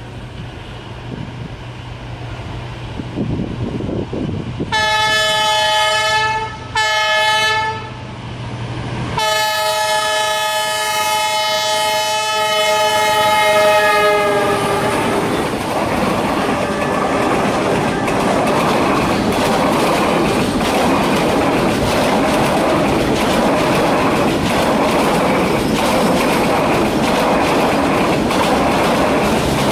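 Train horn on an approaching Vietnam Railways train: two short blasts, then a long one whose chord drops in pitch as the train passes. The rumble of the passing train follows, with wheels clacking steadily over the rail joints.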